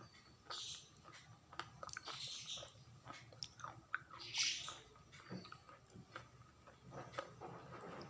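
Close-up chewing and biting of crunchy food: scattered sharp crackling clicks, with louder crunchy bursts about half a second, two seconds and four and a half seconds in.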